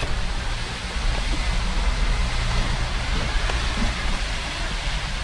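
Steady rain falling, heard as an even hiss over a low rumble.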